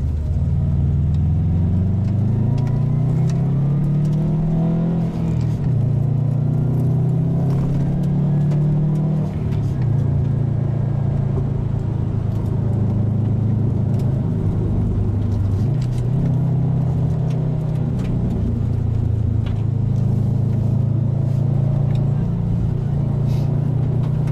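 Subaru WRX STI's turbocharged flat-four engine heard from inside the cabin while driving a gravel road. The revs climb over the first few seconds, drop twice, at about five and nine and a half seconds in, as if through upshifts, then hold steady at cruise. Tyre noise runs underneath.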